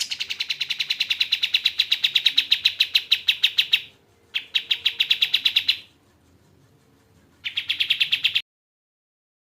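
Kapas tembak bird singing fast trills of evenly repeated sharp notes, about ten a second: a long run of nearly four seconds, a shorter one, and a brief last one before the song stops.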